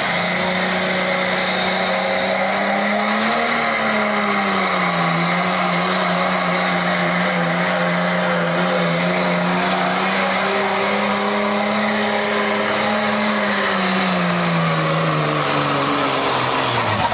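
A work stock pickup truck's engine runs hard under full load, pulling a sled at near-steady high revs, with a high whistle rising over the first few seconds. Near the end the revs drop away as the pull ends.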